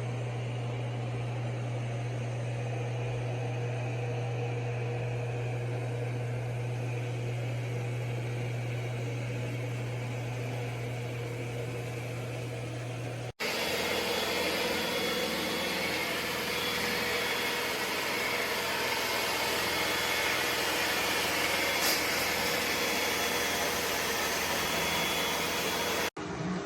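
ECOVACS Deebot X9 Pro robot vacuum running, a steady motor hum under a broad hiss. About 13 seconds in the sound cuts to a louder, hissier stretch of steady machine noise.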